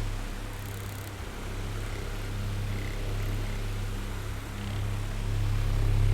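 Oscillating electric fan running: a steady low motor hum under the hiss of moving air. It grows quieter as the fan head turns away, then louder again near the end as it sweeps back.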